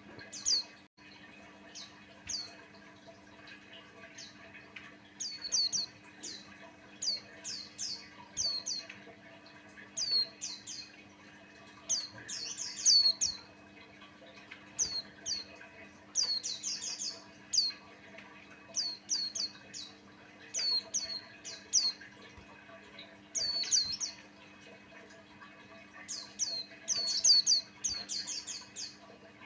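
White-eye (pleci Buxtoni) singing: quick phrases of thin, high, down-slurred chirps, repeated again and again with short pauses between. A faint steady low hum runs underneath.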